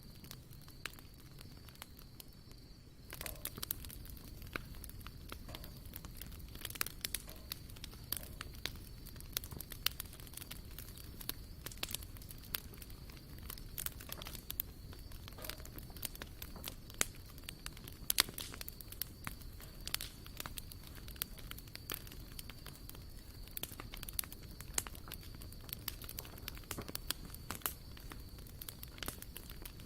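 Wood campfire crackling, with irregular sharp pops and snaps that become louder and more frequent about three seconds in.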